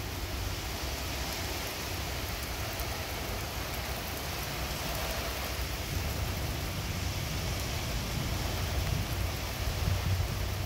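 Steady rain falling in an even, continuous hiss, with a low rumble underneath.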